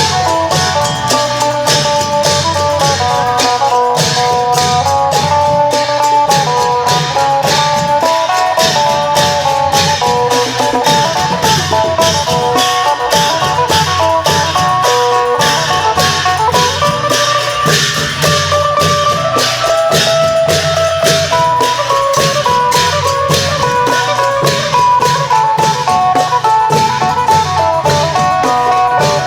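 An Isan phin, a plucked lute, plays a busy melody over klong yao long drums and percussion keeping a steady beat.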